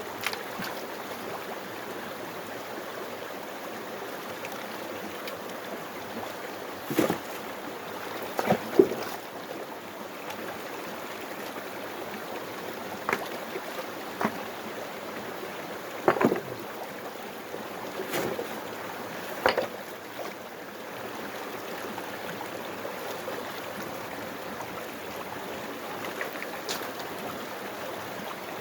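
Water rushing steadily through a gold-mining sluice box, with scattered sharp knocks and scrapes, some in quick pairs.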